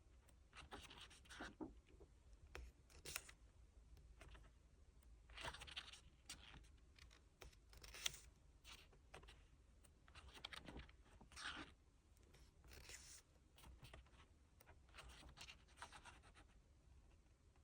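Faint rustling, swishing and light tapping of paper and packaging being handled while a K-pop album is unboxed, in short irregular strokes.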